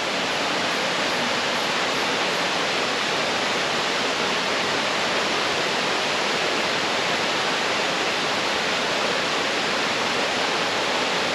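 Steady, even rushing of falling water from a waterfall or stream, loud and unbroken. Faint high ticking is heard during the first couple of seconds.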